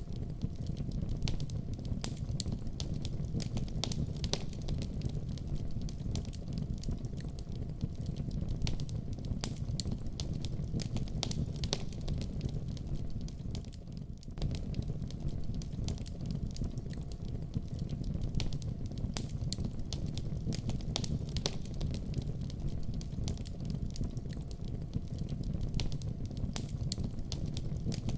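Wood fire burning in a fireplace: a steady low rumble of flames with frequent sharp crackles and pops, briefly quieter about halfway through.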